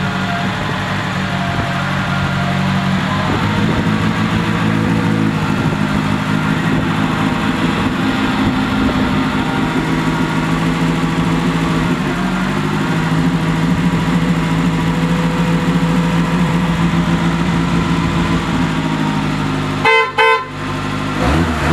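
Renault 12 TL's four-cylinder engine idling steadily in the enclosed garage. Near the end the car's horn gives a short double toot.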